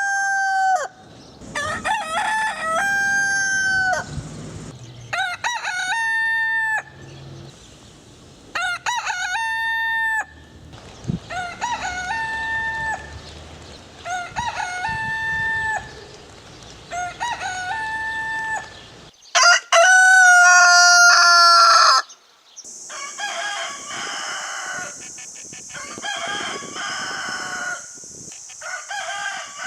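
Roosters crowing, one cock-a-doodle-doo after another, roughly every two seconds. The loudest crow comes about two-thirds of the way through, and the crows after it come with a steady high hiss.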